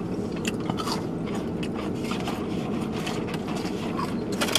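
A person chewing chicken nuggets, with scattered small clicks of mouth and food, over the steady hum of a car's air-conditioning blower.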